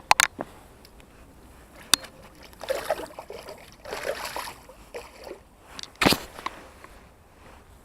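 Water sloshing and splashing in two short spells, with a few sharp knocks scattered through, the loudest about six seconds in.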